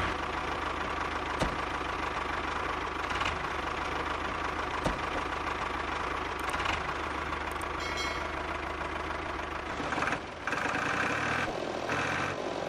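A motor running steadily, with a few short sharp clicks along the way.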